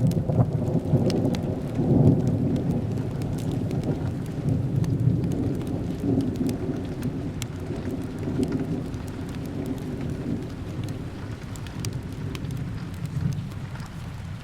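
Rolling thunder over steady rain: a deep rumble starts suddenly, is loudest about two seconds in, and slowly dies away, with scattered sharp ticks over the rain's hiss.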